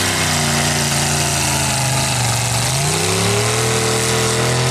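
Pulling truck's engine running hard at high revs under load. Its pitch sags about two seconds in, then climbs back up.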